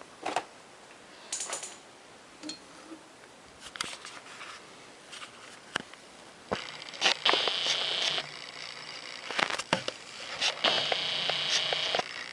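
Handling noise from a handheld camera being taken off its tripod and moved about: scattered clicks and knocks. In the second half there are two stretches of steady hissing whir, each lasting a second or two.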